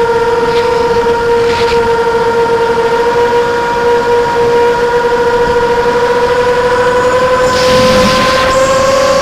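Quadcopter drone's motors and propellers whining steadily, with the pitch creeping slightly higher near the end. A short burst of hiss comes in about three-quarters of the way through.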